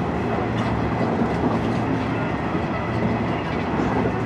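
Passenger train running at speed, heard from inside the carriage: a steady noise of the wheels on the rails with a low hum.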